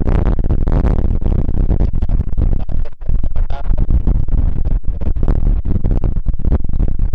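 Strong storm wind gusting over the microphone, a heavy irregular buffeting rumble that dips briefly about three seconds in.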